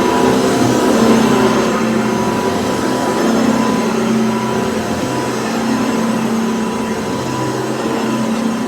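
Cordless stick vacuum cleaner running steadily: a motor hum with a constant whine over the rush of air.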